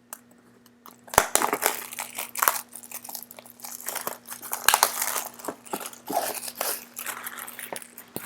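Plastic wrap and packaging of a sealed basketball card box being torn and crinkled as it is opened, with dense irregular crackling starting about a second in.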